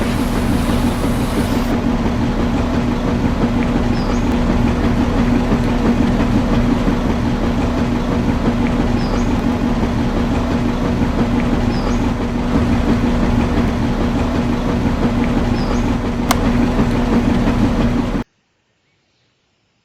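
A small machine running steadily with a constant hum and a faint high squeak every few seconds, cutting off suddenly near the end.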